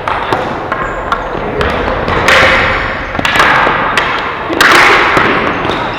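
Ball hockey play: a run of sharp clacks and thuds from sticks, ball and boards, echoing in a large hall, with several louder bursts of noise lasting about a second each.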